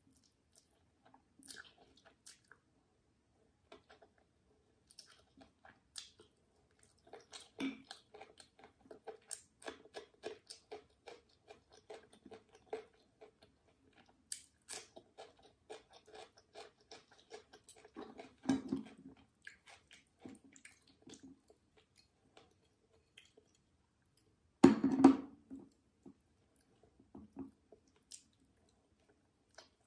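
Close-miked chewing and wet mouth sounds of someone eating rice and chicken curry by hand, with scattered soft crunches. A short, loud clatter comes about 25 seconds in.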